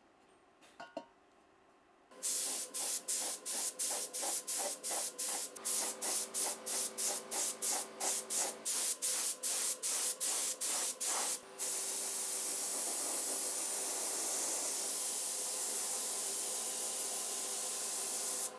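Paint being sprayed in short rapid bursts, about three a second, then in one continuous spray lasting about seven seconds.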